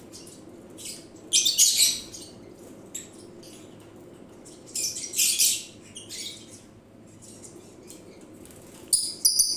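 Male lovebird giving shrill, harsh calls in three loud bursts, repeatedly calling to its mate.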